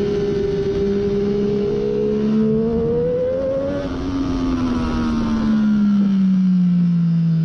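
Triumph Daytona 675's three-cylinder engine with a Hindle slip-on muffler, heard onboard at track speed: its pitch climbs for about four seconds, drops suddenly, then sinks slowly as the bike slows, over a rush of wind noise.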